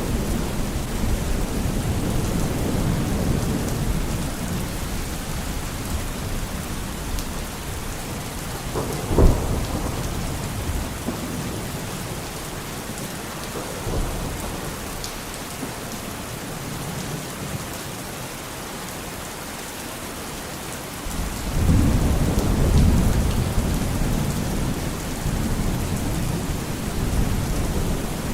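Steady rain with thunder rumbling low. A sharp thunderclap comes about a third of the way in, the rumbling dies down, and a fresh roll of thunder starts suddenly about three quarters of the way through.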